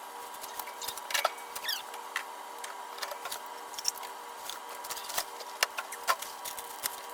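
Scattered light clicks, taps and knocks of food containers and packaging being handled and set down while a fridge is cleared out, over a steady hum.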